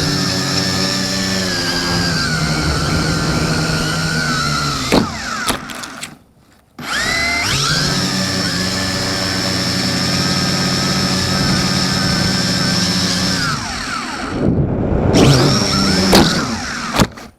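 X101 quadcopter's electric motors and propellers whining at full speed, heard close up from a camera taped to the drone. About five seconds in they cut out with a knock, spin up again after a short silence and run steadily, then falter and rise roughly before stopping abruptly, as the drone crashes and flips over.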